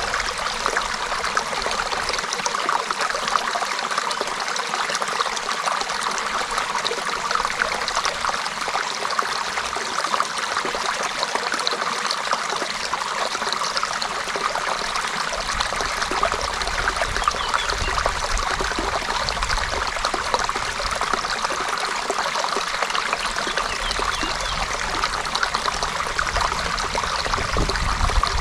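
Creek water running steadily over stones, a continuous bubbling trickle.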